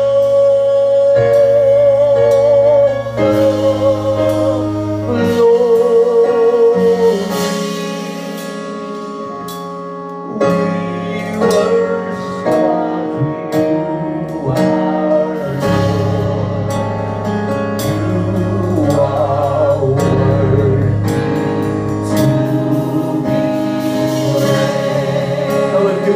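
Gospel worship music: a voice singing long held notes with vibrato over sustained instrumental accompaniment, softening briefly about eight seconds in before building again.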